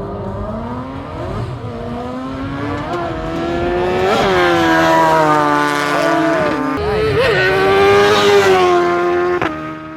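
Superbike engines revving, their pitch climbing and falling several times with overlapping engine notes. The sound grows louder through the middle and drops off sharply near the end.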